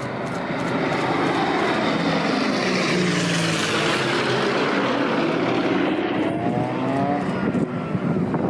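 Propeller airplane flying low past: the engine noise swells to a peak a few seconds in, then drops in pitch as it goes by.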